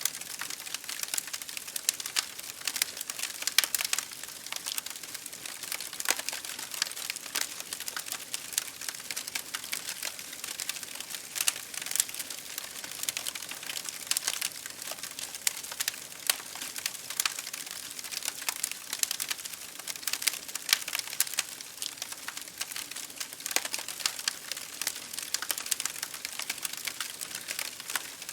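Wood fire crackling in a fireplace over rain pattering on window glass: a steady hiss dotted with frequent irregular sharp pops and snaps.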